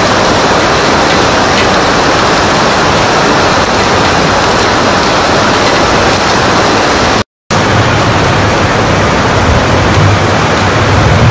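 Heavy rain falling in a steady, dense hiss. The sound cuts out for an instant about seven seconds in, and a low rumble builds underneath near the end.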